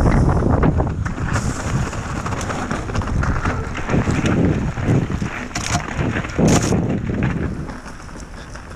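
Wind buffeting the microphone over the rumble and rattle of a mountain bike riding a rough trail, with sharp knocks, the two loudest about five and a half and six and a half seconds in; it eases off near the end.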